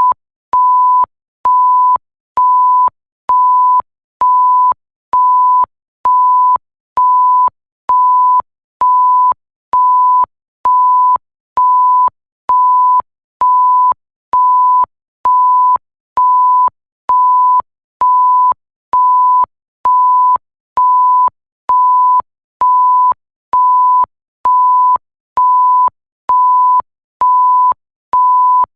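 Electronic bleep tone, a single pitch near 1 kHz, repeating evenly at about one beep a second. Each beep lasts about half a second and has a faint click where it switches on and off.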